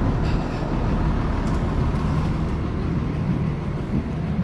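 A truck engine running steadily at idle, a constant low hum with a few faint clicks over it.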